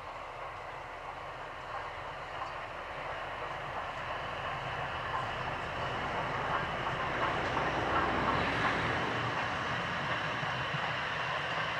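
A train approaching and running past, its rumbling noise growing louder over about eight seconds, then holding steady.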